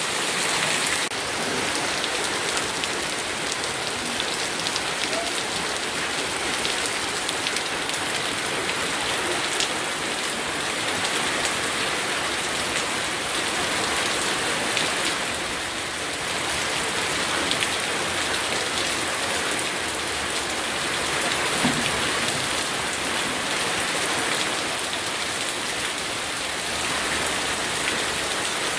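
Steady rain falling and pattering on surfaces, a dense even hiss of many drops.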